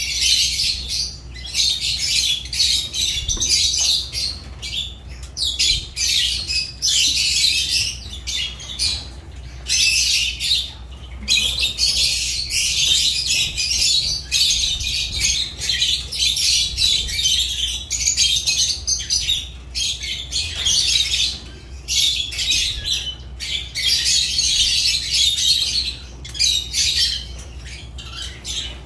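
Lovebirds chattering: shrill, high-pitched squawks and chirps, nearly continuous with short breaks.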